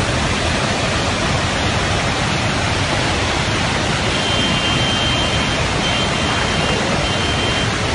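Loud, steady rushing noise with no breaks, with a faint thin high tone coming and going in the second half.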